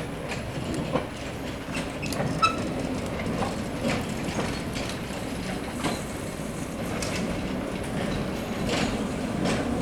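Electric tram running along its track: a steady rumble with scattered clicks and knocks from the wheels on the rails.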